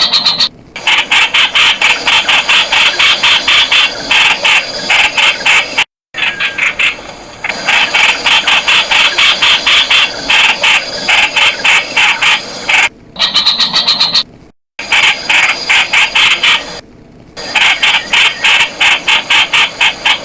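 Streak-eared Bulbul calling: rapid, evenly repeated short harsh notes, about five a second, with brief breaks about six seconds in and two-thirds of the way through.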